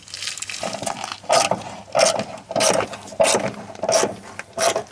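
Hand tool working on a lawn mower's belt pulley: a regular mechanical clicking stroke, about one every two-thirds of a second, starting about a second in.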